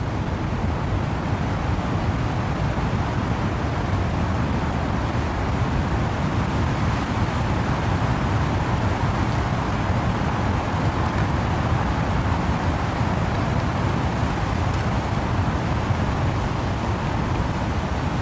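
Wind and rain in trees, a steady rushing noise with a deep rumble underneath, unchanging throughout.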